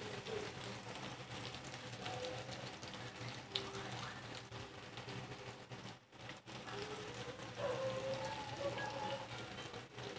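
Eggplants shallow-frying in oil in a pan, the oil crackling and sizzling steadily, with a brief lull about six seconds in.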